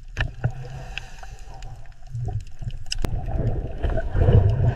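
Underwater ambience: a low rumble with scattered clicks and bubbling, swelling near the end.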